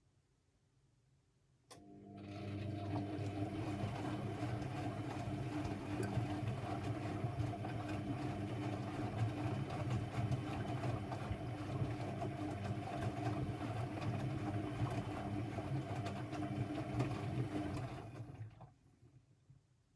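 Constructa Energy 1000s washing machine's motor starting abruptly about two seconds in, running at a steady speed for about sixteen seconds with a hum and mechanical rattle, then stopping near the end.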